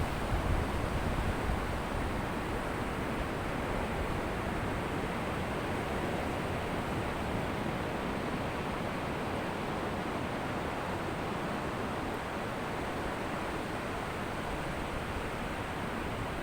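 Ocean surf washing onto a beach as a steady rushing noise, with no separate wave crashes standing out.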